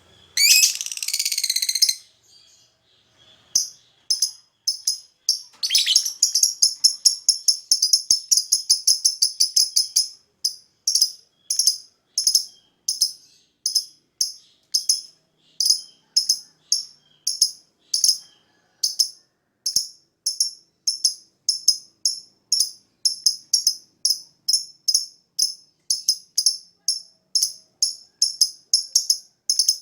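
Lovebird calling: a harsh screechy trill lasting about a second and a half near the start, then a fast run of sharp high chirps that settles into a steady series of about two chirps a second.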